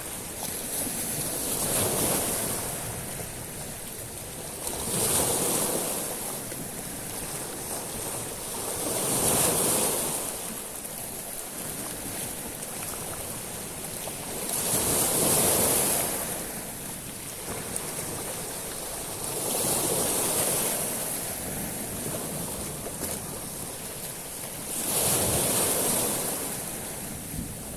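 Sea waves breaking and washing over a shingle beach of small stones, six surges about every four to five seconds, each with a bright hissing wash of water through the stones, over a steady background wash.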